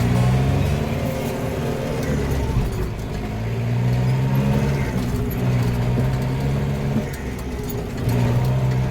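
Tractor engine running steadily, its note dropping away twice and picking up again.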